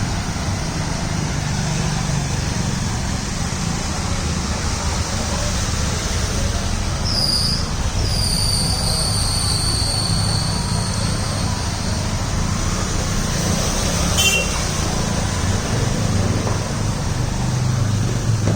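Steady wash of heavy rain mixed with road traffic, vehicle engines rumbling low underneath, with a brief high squeal partway through.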